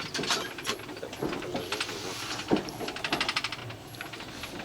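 Rattling and clicking inside a moving train carriage, with a quick, even run of clicks about three seconds in.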